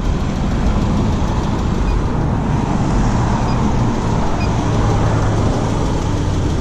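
Car engine idling steadily during an alternator charging test, over a steady low rumble of road traffic.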